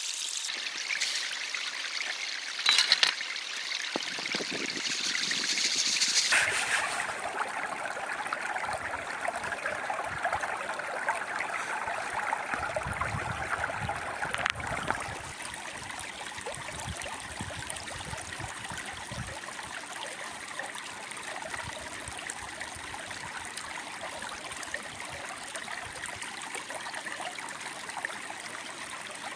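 Stream water running steadily, with a few sharp clicks and knocks in the first several seconds.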